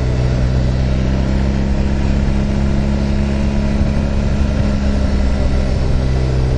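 Motorcycle engine running at a steady pitch while riding along at constant speed.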